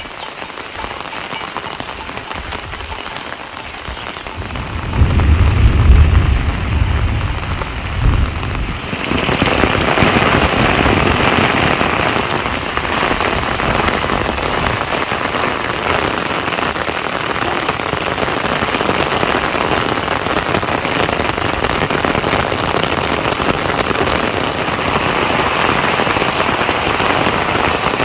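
Rain falling steadily, with a deep low rumble about five seconds in. About nine seconds in the rain turns abruptly louder and heavier and stays that way.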